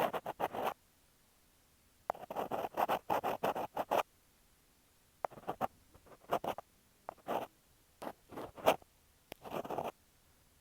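Earpick scraping against an earphone microphone for ASMR ear-cleaning sounds: a close, crackly scratching in quick bursts of rubbing strokes, then shorter separate scrapes with short pauses between them.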